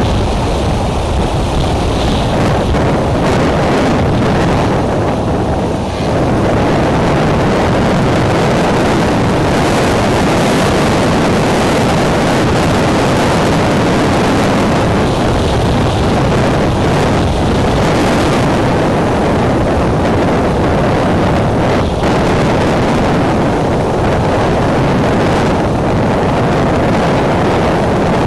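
Extreme wind blasting across the nest camera's microphone: a loud, steady rush of noise, heaviest in the low end, dipping briefly and then building again about six seconds in.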